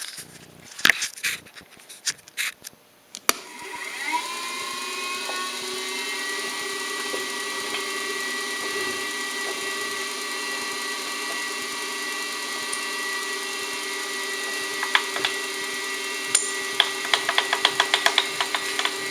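A few sharp knocks, then a milling machine's spindle starts about three seconds in, its whine rising in pitch and settling into a steady run. Near the end a run of quick clicks sounds over the running spindle.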